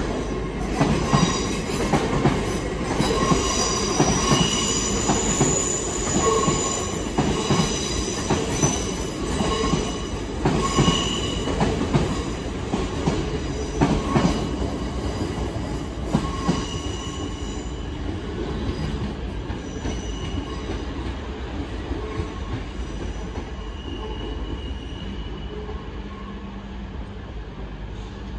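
A TransPennine Express Class 802 train rolls out of the platform, its wheels squealing in high on-and-off tones over a rumble and the clicks of wheels passing over rail joints. The squeal and clicks die away about two thirds of the way through, leaving a fainter rumble.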